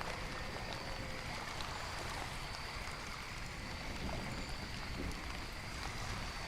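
Steady rain-and-nature ambience: an even wash of falling rain and running water, with faint high steady tones above it.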